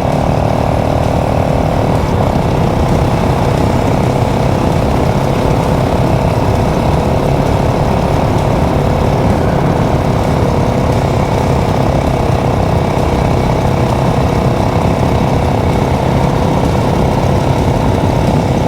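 Motorcycle engine running steadily at an even speed while riding, with the rush of wind over it.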